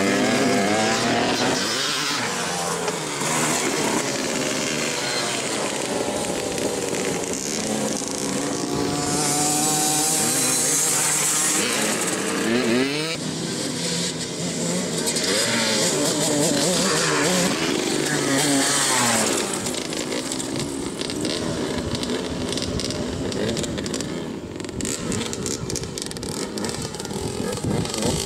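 Dirt bike engine revving, its pitch climbing and dropping again and again as it accelerates and backs off, with a stretch of hiss about a third of the way in.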